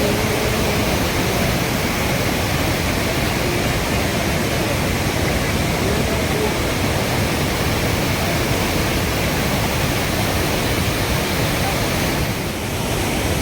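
Dhuadhar Falls on the Narmada River rushing steadily. The sound is an even wash of water noise that dips briefly near the end.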